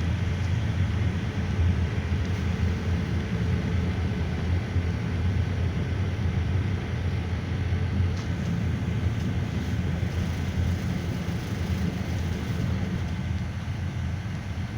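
Cabin noise inside a GAZelle Next minibus on the move: a steady low engine and road rumble, with a faint thin whine held above it, easing slightly near the end.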